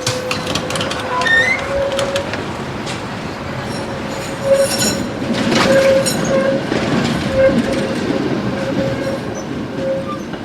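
Tram running on its rails, its wheels squealing on and off over a rumble, with repeated sharp clicks and knocks from the track.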